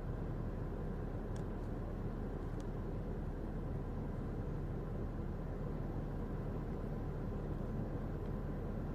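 Steady low background rumble with no distinct events, and a couple of faint ticks early on.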